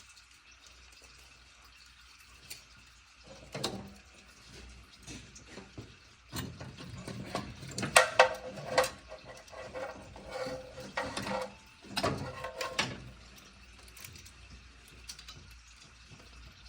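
Metal clinks, clicks and knocks of hand tools and parts being worked on the carburetor and throttle linkage, scattered and loudest around the middle, some with a short metallic ring.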